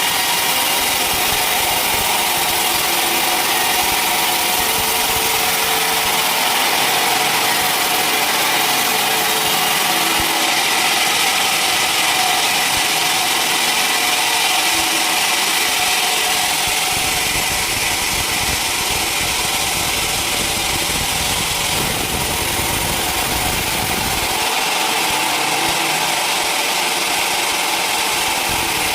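Sawmill machinery running steadily, a dense mechanical noise with a few steady tones, dropping a little in loudness about two-thirds of the way through.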